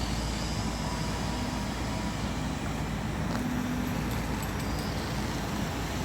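Steady rumble of motor vehicle engines and traffic, with a low engine drone running underneath.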